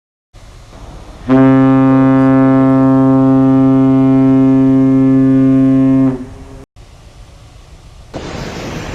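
Ship's whistle (horn) sounding one prolonged blast of about five seconds, a low steady tone, the fog signal given in low visibility. A broad rushing noise starts near the end.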